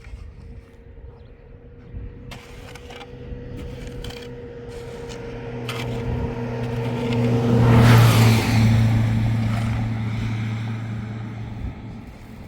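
A motor vehicle driving past: its engine grows louder to a peak about eight seconds in, drops in pitch as it passes, then fades away.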